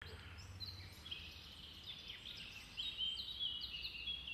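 Birds chirping and singing, many short calls overlapping, growing busier and louder a little past halfway, over a faint low hum.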